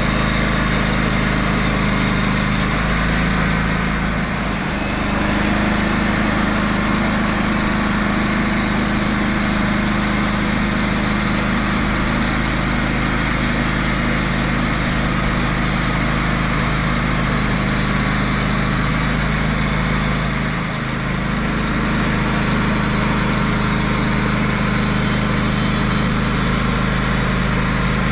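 Engine running steadily and loudly, with two brief dips in level, about four seconds in and again about twenty seconds in.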